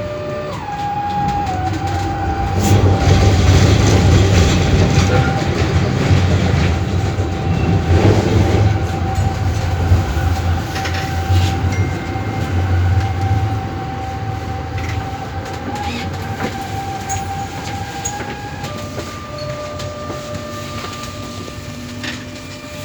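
VBZ Tram 2000 running along the track: a low rumble of wheels and running gear that swells and then eases off, with a steady electrical whine that holds one pitch and changes near the end, and scattered clicks and knocks from the rails.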